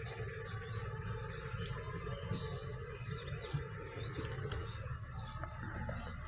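Small birds chirping, many short high chirps scattered throughout, over a faint steady low hum.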